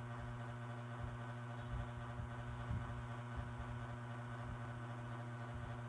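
Steady hum of a one-step hot-air dryer brush running, a low tone with overtones over a light airy hiss.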